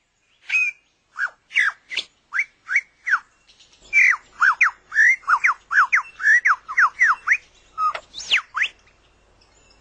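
Superb lyrebird singing: clear whistled notes, spaced out at first, then a fast run of sweeping notes from about four seconds in, stopping shortly before the end.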